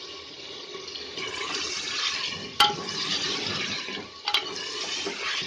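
Meat frying in mustard oil in an aluminium pressure-cooker pot, sizzling steadily as ginger-garlic paste is stirred in with a steel spoon. The sizzle grows louder about a second in, and the spoon knocks sharply against the pot twice.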